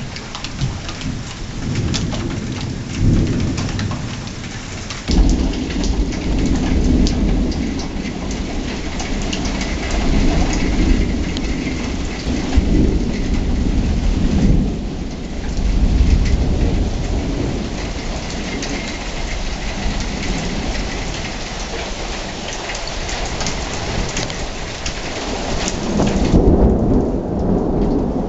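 Steady heavy rain with repeated rolling thunder. About five seconds in, a sudden sharp crack of close thunder breaks into a long low rumble, and near the end another roll of thunder swells.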